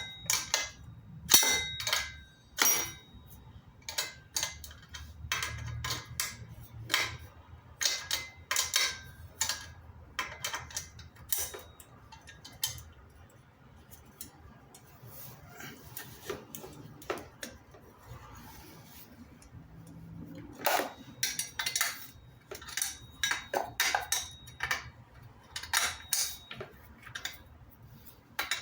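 Irregular metallic clinks and clanks of metal parts or tools being handled, some ringing briefly, with a quieter stretch in the middle.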